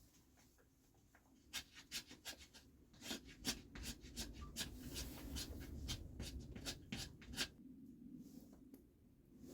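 Quick, irregular scratchy scrapes and clicks close to the microphone, a run of them starting about a second and a half in and stopping shortly before the end.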